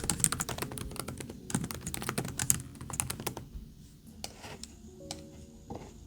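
Computer keyboard typing in a quick run of key clicks for about three and a half seconds, then a few scattered clicks, over faint background music.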